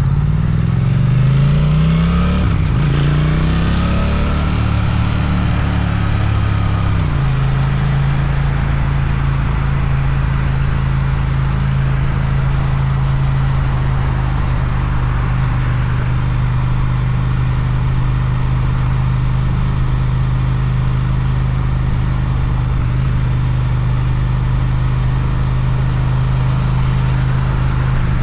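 Suzuki motorcycle with an Akrapovic exhaust accelerating. Its engine note rises, drops with a gear change about two seconds in, and rises again. From about seven seconds in it cruises at steady engine speed.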